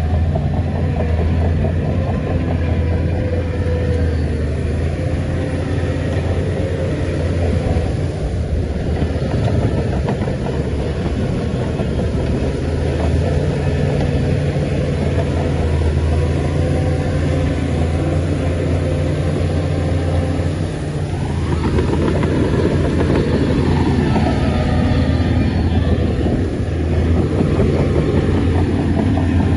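Heavy diesel earthmoving machinery running steadily with a deep engine hum. About two-thirds of the way through, the engine note swells and a higher tone rises and falls for a few seconds, as if the machine is working under load.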